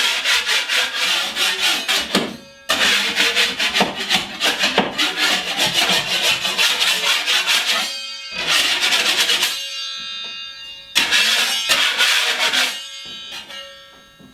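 Rapid back-and-forth rasping strokes on drywall as the edges of a patch are scraped flat before taping, in runs with short pauses about two, eight and ten seconds in, tailing off near the end. Guitar music plays underneath.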